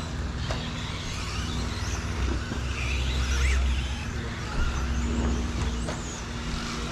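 Radio-controlled 2wd stadium trucks racing on a dirt track, their motors whining up and down in pitch as they accelerate and slow, over a low steady hum.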